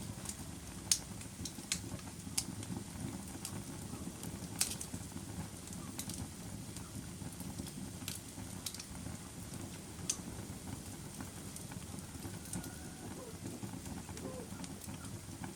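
Wood fire burning in a fireplace: a steady low rumble of flames with sharp crackles and pops at irregular intervals, the loudest about a second in and at about four and a half seconds.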